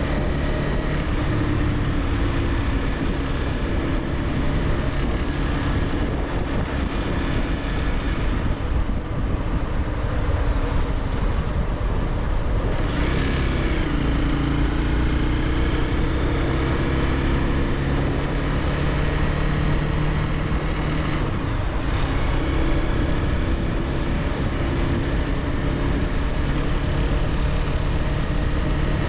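Honda CBR300R's single-cylinder engine running under way. The note eases off from about nine seconds in and picks up again after about thirteen seconds.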